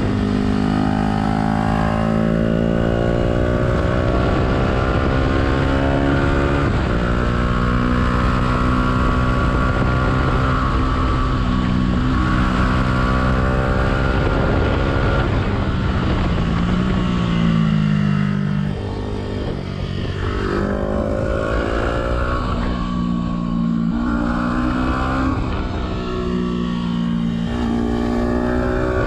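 Yamaha YZF-R125's single-cylinder four-stroke engine through a Black Widow exhaust with the dB killer removed, pulling up through the revs and shifting gear several times, with the pitch rising and then dropping at each change. It eases off about two-thirds of the way through, then accelerates again.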